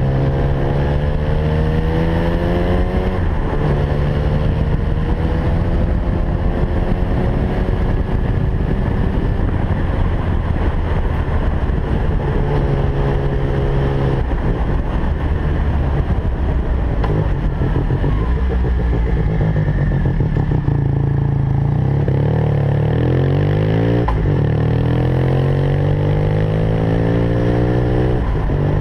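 Suzuki RE5's single-rotor Wankel engine running and being revved, its pitch climbing and dropping back several times.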